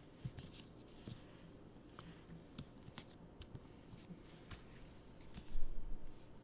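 Hands handling a pin badge set and its packaging: light clicks and taps of small items, with a louder rustle and low bump about five and a half seconds in.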